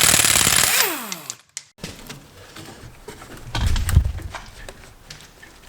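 A power tool's motor runs loudly for about a second, then spins down with a falling whine. Later come scattered clinks and a low rumbling thump.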